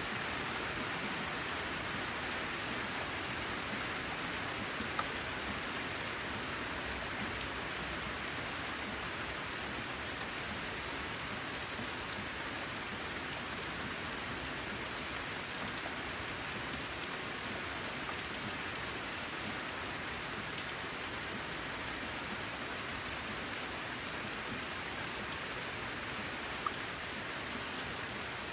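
Steady rain falling on a corrugated zinc roof, an even patter with scattered sharper drop ticks.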